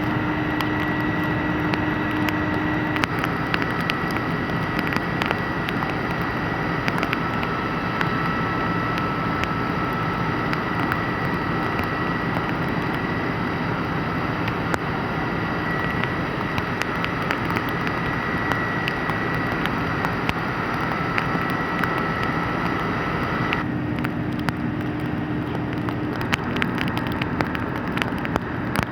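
Steady engine running with a held droning tone, typical of a fire appliance's engine and pump working at a fire, with scattered crackles and clicks over it. The tone changes abruptly about 24 seconds in.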